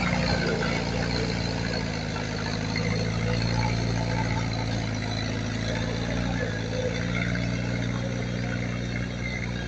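Diesel engine of heavy earthmoving equipment running steadily at an even low pitch.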